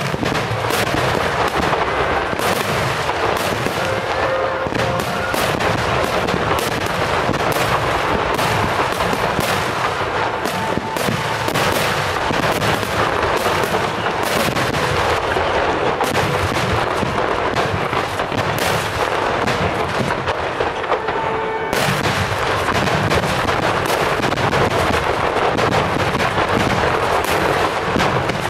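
Fireworks in a dense barrage: shell bursts and crackling reports follow one another too fast to count, with a fresh wave of sharper bangs about three-quarters of the way through.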